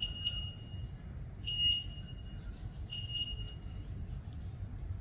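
A bird calling three times: steady high whistled notes, each under a second long, about a second and a half apart, over a constant low rumble.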